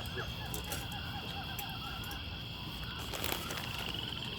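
An animal's rapid run of short chirping calls, fading out about halfway through, over a steady high-pitched whine. A single soft knock comes about three seconds in.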